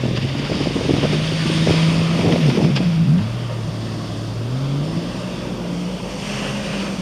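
Sea-Doo RXP 255 jet ski's supercharged three-cylinder engine revving up and down with the throttle, its pitch dropping sharply about three seconds in and climbing again a couple of seconds later, over a hiss of water spray and wind on the microphone.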